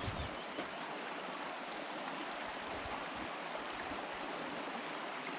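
Running river water, an even, steady rushing sound.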